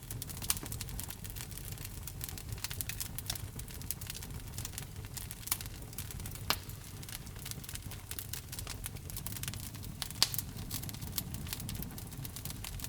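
Wood fire burning in a fireplace: a dense run of small crackles and snaps over a low steady rumble of flame, with a few louder pops, the sharpest about ten seconds in.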